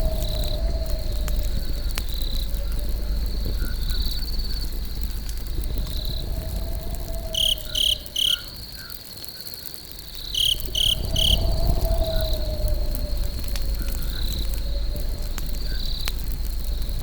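Crickets chirring steadily, with occasional sharp pops and a low rumble from a crackling campfire. A low wavering tone rises and falls every few seconds, and near the middle two sets of three loud, quick chirps stand out.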